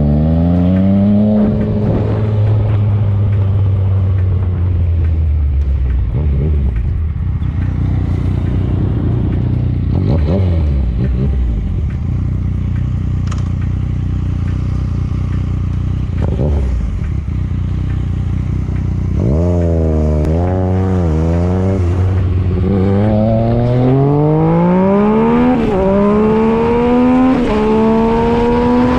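Motorcycle engine running hard, its pitch falling and rising as the throttle is opened and closed. Near the end it accelerates with a long rising pitch, broken twice by short drops at the upshifts.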